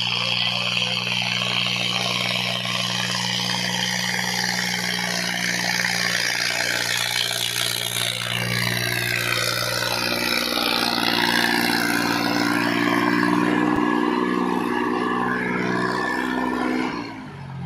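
Tractor diesel engine running steadily while working a harrow, with a higher engine note joining from about ten seconds in; the sound falls away shortly before the end.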